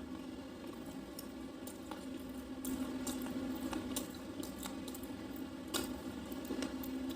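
Slate pencil being chewed in the mouth: irregular sharp crunches and soft squishy chewing, several crunches a second at times.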